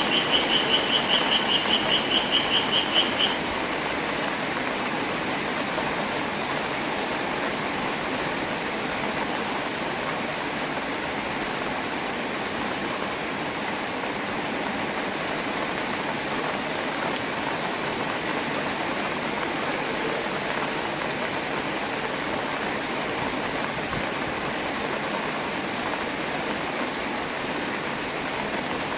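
Steady rain falling, an even hiss of drops. For the first three seconds a high, rapidly pulsing call sounds over it, then stops.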